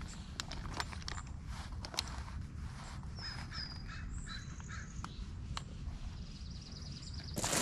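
Birds calling, including a short run of caws about three seconds in and a few high chirps, over a steady low rumble with scattered light clicks and taps.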